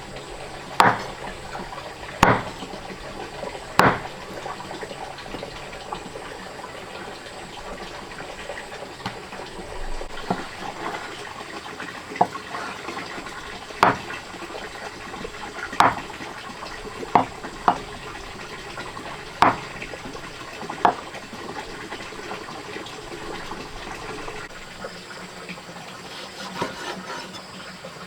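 Water running and splashing steadily, with about a dozen sharp knocks every second or two.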